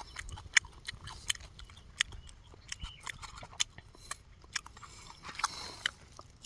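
A person chewing a banana close to the microphone: irregular wet mouth clicks and smacks, several a second.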